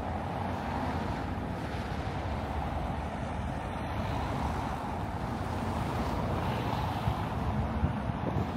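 Steady street traffic noise, with wind rumbling on the microphone.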